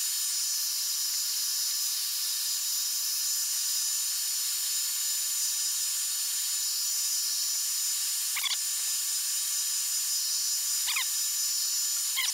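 Hot-air tool blowing steadily, a hissing rush with thin high steady whines, heating the glued-down iPad 2 digitizer glass to soften its adhesive. Three brief chirps in the second half.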